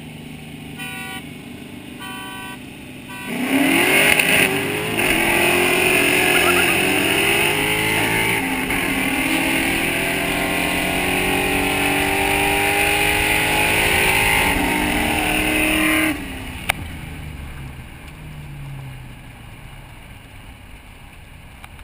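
Mustang V8 going to wide-open throttle about three seconds in, its pitch climbing and dropping back at each upshift through the gears. The driver lifts off sharply about 16 seconds in, leaving a lower steady engine drone.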